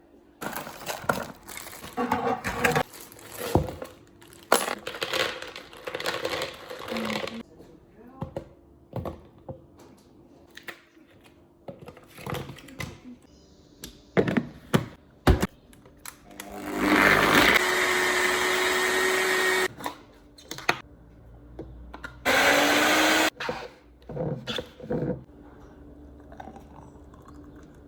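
Countertop blender running in two bursts, first for about three seconds and then briefly for about one second, blending a smoothie. Before the blending there is scattered clatter and knocking of kitchen items being handled.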